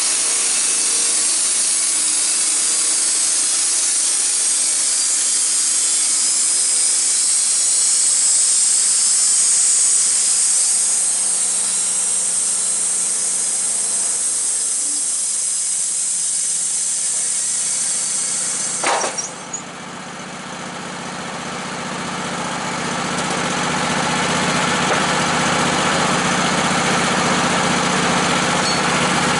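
A power saw cutting through wood, a steady hissing rasp. About two-thirds of the way in there is a sharp clunk and the sawing stops. An engine is then heard running steadily, its sound building over a few seconds.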